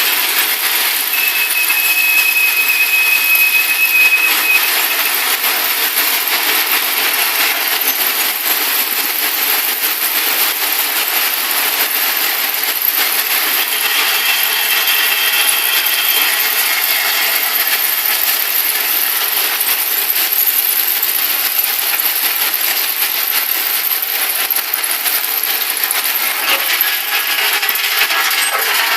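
Ballast train at work: a dense, steady rattle and clatter of stone and metal. A brief high squeal comes about a second in, and another fainter one around the middle.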